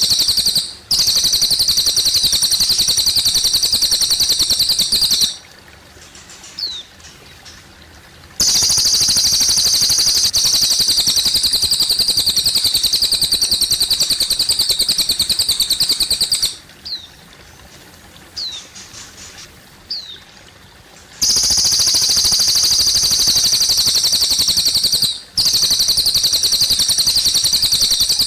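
Cililin bird singing long, loud, rapid chirping trills of several seconds each, broken by three short pauses in which a few single down-slurred chirps sound, with water trickling underneath.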